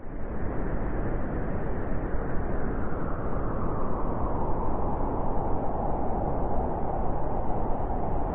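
Winter wind blowing in a steady rush, a dense noise with a deep rumble underneath that swells slightly toward the end. It comes in abruptly at the very start after a moment of silence.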